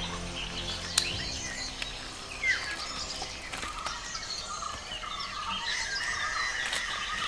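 Forest birds chirping and calling over a steady outdoor background, with many short, quick calls. A single sharp click comes about a second in.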